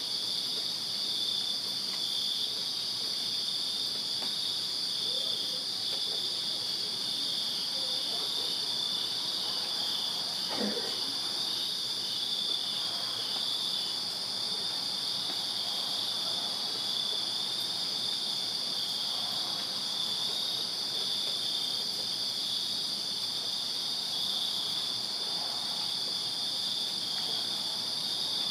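A chorus of crickets chirping steadily on a summer night: a dense, unbroken high-pitched trill, with one band of it pulsing.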